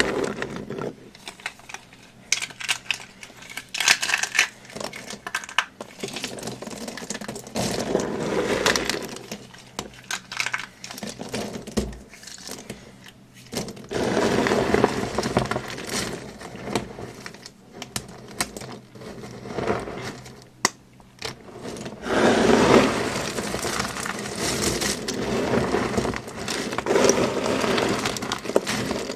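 Dry, crumbly material crunching and crackling as it is squeezed and crushed by hand, in repeated bursts with short lulls between.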